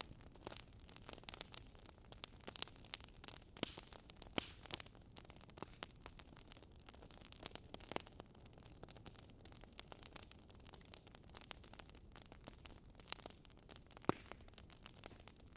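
Wood fire in a fireplace crackling softly: irregular small pops and snaps over a faint hiss, with one sharper pop near the end.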